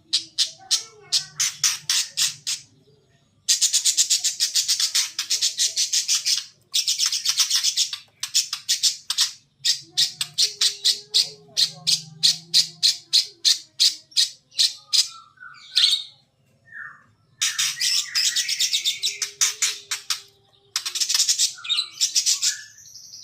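Pet parakeet giving long trains of rapid, rattling clicks, each lasting a few seconds with short breaks between, and a few short squawks in between.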